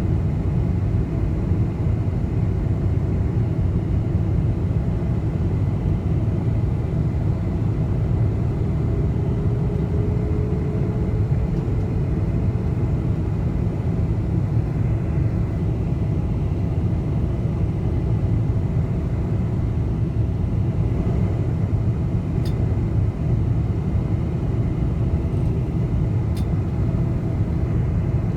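Steady low rumble of engines and rushing air inside the cabin of a Boeing 747 on its approach to land, with a faint steady high whine. Two faint clicks sound near the end.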